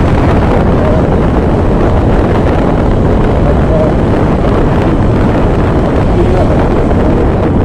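Loud, steady wind buffeting on the microphone while riding a motorbike, mixed with engine and road noise.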